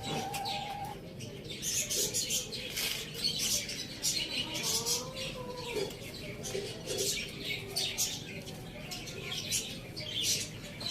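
Many small birds chirping rapidly and continuously in high, short notes. A fainter, drawn-out call rises and falls in the background about five seconds in.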